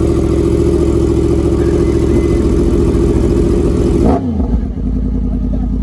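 A 1000cc motorcycle with an aftermarket exhaust, held at steady high revs for about four seconds, then dropping back to a lower idle. Its exhaust note is calm and soft for the aftermarket pipe.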